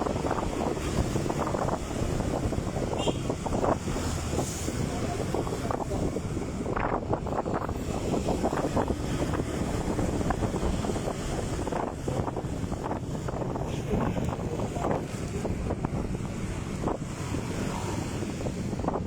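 Wind buffeting the microphone in a constant low rumble, over the road noise of a moving motorcycle.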